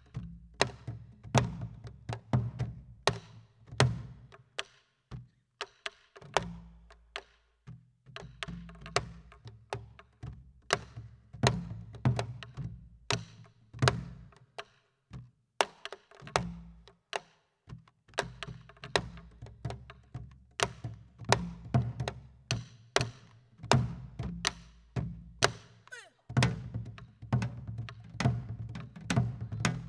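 Korean buk barrel drum and janggu hourglass drum played together in pansori drumming rhythms: sharp strokes on the drumheads mixed with hard clicks on the wooden shell, in phrases broken by brief pauses a few times.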